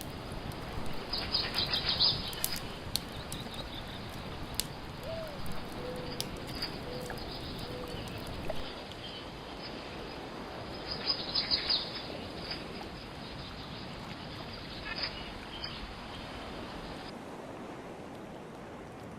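Wood fire crackling and popping over a steady hiss, with clusters of louder pops about a second in, around eleven seconds and near fifteen seconds. The hiss thins out near the end.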